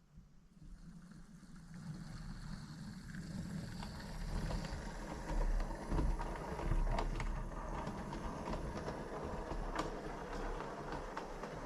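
Model 56XX tank locomotive and its train running on a model railway track: a steady rumble with a low hum and scattered clicks, building up over the first two seconds.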